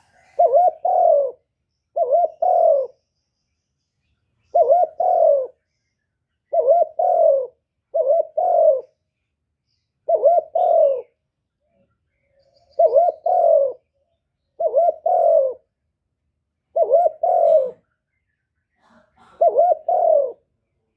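A bird cooing: about ten low two-note calls, one every two seconds or so, with silence between.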